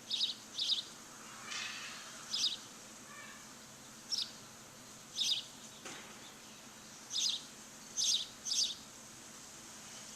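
A wild bird's short, high chirps, repeated at irregular intervals and sometimes in quick pairs, over a steady background hiss.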